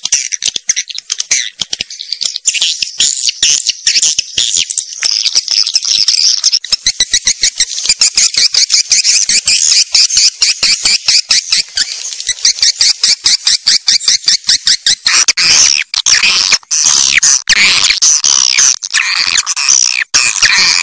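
Swiftlet calls, the sound used to lure edible-nest swiftlets: a dense stream of rapid clicks with high twittering chirps over them. From about fifteen seconds in, fuller chirps that slide in pitch join in.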